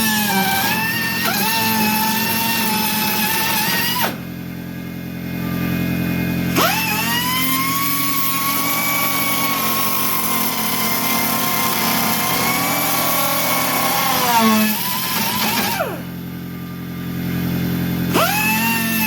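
Air-powered cutoff wheel cutting rusted truck-cab sheet metal in three runs. Each run begins with a high whine that rises as the wheel spins up, holds steady while cutting, and falls away as the trigger is released, with short pauses about four seconds in and again near the end.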